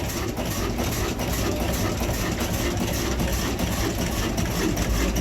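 Old desi 'kala' (black) stationary diesel engine running steadily, with a fast, even exhaust beat.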